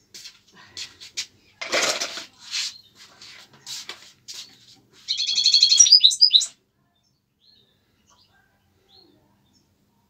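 A small cage bird chirping in short, high calls, then giving a fast, loud trill about five seconds in that stops abruptly. A short burst of noise comes about two seconds in.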